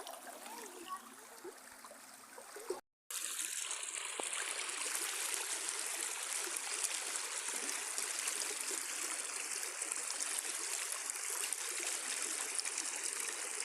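River water running, a steady rushing noise. After a brief cut about three seconds in it becomes much louder and closer.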